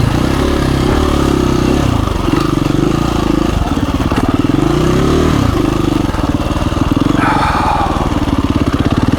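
KTM 350 EXC-F dirt bike's single-cylinder four-stroke engine running at low revs, the throttle opened and closed in short goes; the revs climb about four to five seconds in, then drop back.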